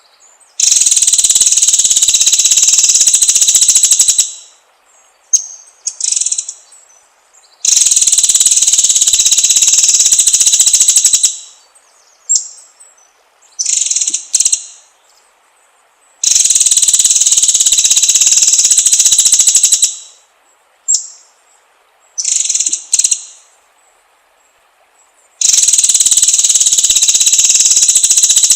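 Bird-training (masteran) recording: four loud, rapid, high buzzing trills of about three and a half seconds each, evenly spaced, with short high chirps between them.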